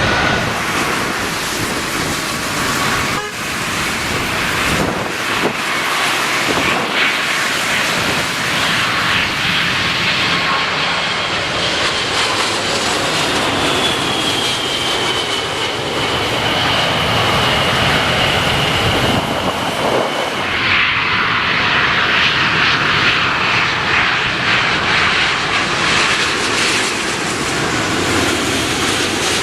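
Jet airliner engines running loudly as the aircraft passes, with a high whine that slides slowly down in pitch and breaks off about two-thirds of the way in.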